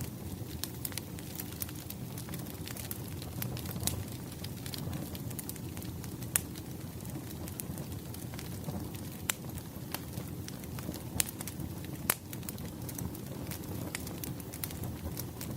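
Wood campfire burning, with a steady low rumble and irregular sharp crackles and pops of the burning logs, a few louder snaps among them.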